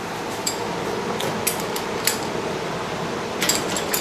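Scattered light metallic clinks and clicks as hand tools and steel gym parts are handled, a small cluster of them near the end, over a steady background hum.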